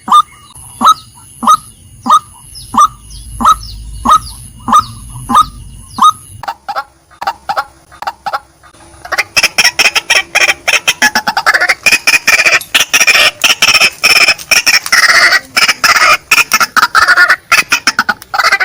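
Female white-breasted waterhen calling: a steady run of short, sharp notes, each dropping in pitch, about one and a half a second. After a short lull, about nine seconds in, comes a fast, loud chattering series of calls.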